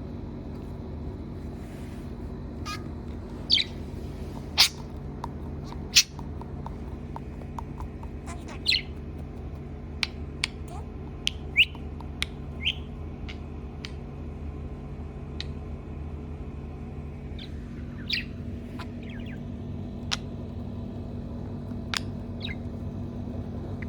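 Budgerigar giving short, sharp squawks and chirps at irregular intervals, a couple of dozen in all, some as quick clicks.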